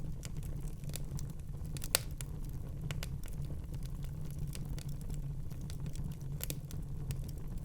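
Wood fire crackling in a fireplace: scattered sharp pops and snaps over a steady low rumble, with the loudest pop about two seconds in and a few more close together near the end.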